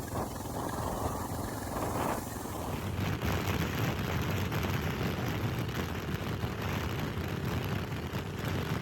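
Motorcycle running while being ridden, with wind rushing over the microphone as a steady rumble and hiss.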